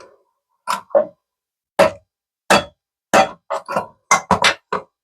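Hammer giving about a dozen light, quick taps to loosen a stuck toilet fill valve nut, the taps coming faster toward the end.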